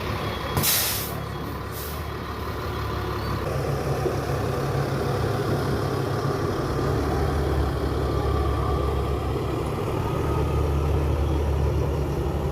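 Thomas FS-65 school bus with a Caterpillar 3126 diesel: a sharp burst of air brake hiss about half a second in and a shorter one near two seconds, then the diesel running and building in level as the bus pulls away.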